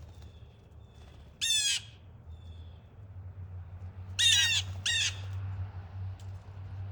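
Blue jays giving loud, harsh jeer calls: one about a second and a half in, then two more in quick succession about four seconds in.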